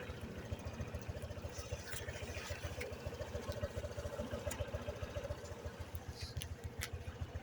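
Motorcycle engine idling with a steady, even low pulsing.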